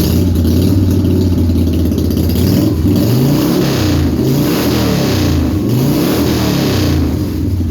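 Harley-Davidson Softail V-twin engine running warm, first at a steady idle, then blipped up and down in several quick revs from about three seconds in, its primary chain freshly tightened and running quiet.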